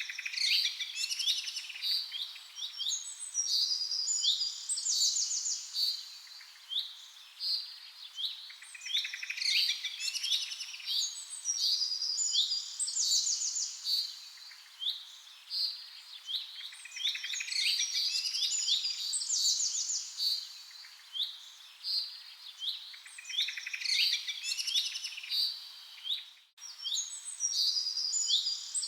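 Many small songbirds chirping and trilling, their calls overlapping densely in bursts that swell and fade every few seconds. There is a brief break in the sound near the end.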